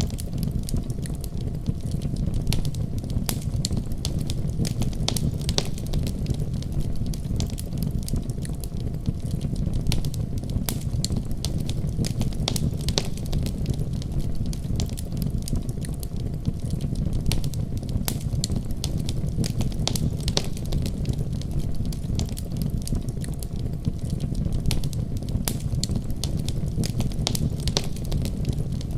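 Wood fire crackling in a fireplace, with frequent sharp pops and snaps, over the steady deep rumble of a winter storm.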